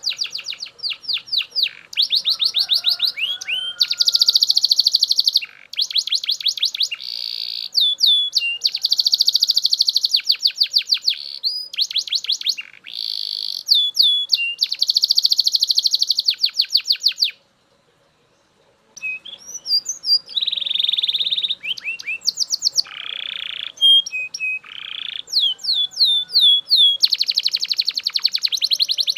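Belgian canary singing loudly in long rolling tours: each phrase is a fast trill of repeated, sweeping high notes, changing from phrase to phrase. There is a pause of about a second and a half a little past the middle.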